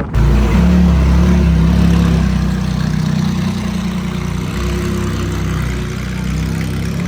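Pickup truck engine running steadily, loud and low-pitched, cutting in abruptly just after the start.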